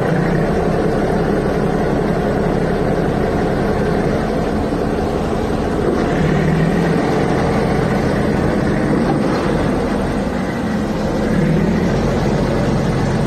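A heavy vehicle engine running steadily, a dense rumble with a hiss over it.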